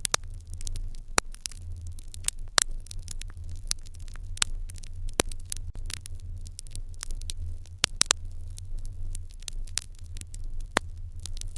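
Fire crackling in an irori hearth: irregular sharp pops and snaps, a few a second with some louder ones, over a steady low rumble.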